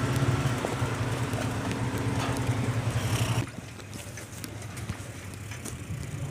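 Motor engine running close by with a steady low hum, cutting off abruptly about three and a half seconds in; scattered faint clicks follow.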